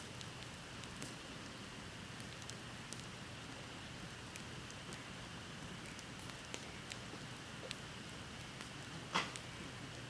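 Wood bonfire burning with a steady soft hiss and scattered small crackles, and one louder pop about nine seconds in.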